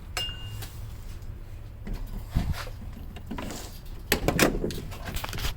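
Scattered knocks and clunks of parts being handled, with a short high tone near the start over a steady low hum.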